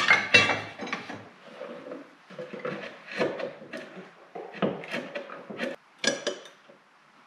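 Irregular knocks and clanks of metal and wooden parts being handled and fitted together, the loudest right at the start; a few of the clanks ring briefly.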